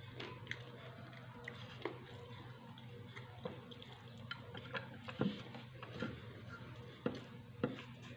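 Close-up eating sounds: irregular wet mouth clicks and smacks of someone chewing food, over a low steady hum.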